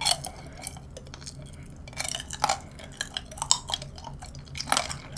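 Chewing a bite of strawberry tanghulu: the hard candied-sugar shell cracking and crunching between the teeth in irregular crackles, with wet chewing of the fruit.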